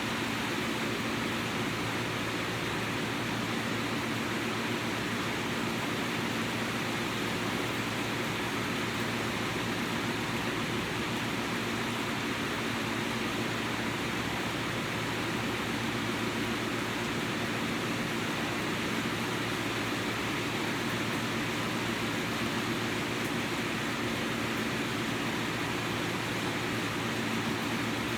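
Steady rain falling, an even unbroken hiss with no drops or splashes standing out.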